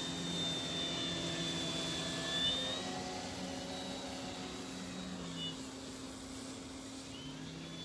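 Gasoline engine of a radio-controlled model airplane running steadily, its pitch wavering a little.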